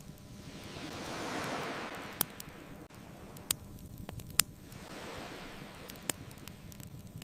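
Ocean waves washing on a beach: one wave swells and fades about a second in, and a smaller one follows later, over a low steady rumble of surf. A wood fire crackles with four sharp pops, the loudest about halfway through.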